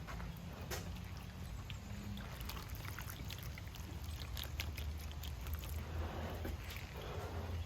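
Light, irregular clicks and rustling over a low steady hum.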